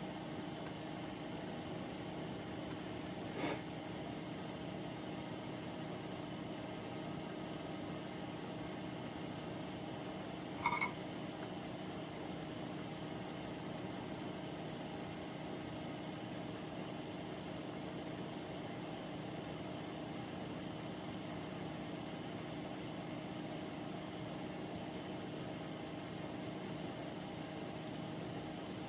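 Steady machine hum with several fixed pitches. Two short light taps cut through it, one about three seconds in and a louder, slightly ringing one about eleven seconds in.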